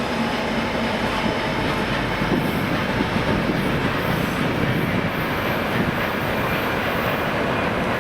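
Freight train wagons rolling past: a steady rumble and rattle of steel wheels on the rails.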